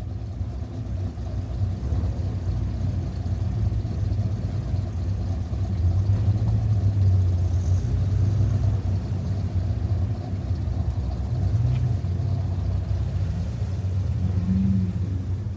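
Dodge Viper's V10 engine running steadily as the car drives, a deep low drone that swells slightly over the first few seconds.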